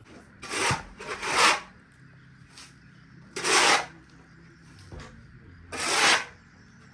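Four separate rough scraping strokes, each about half a second long: two close together near the start, one in the middle and one near the end.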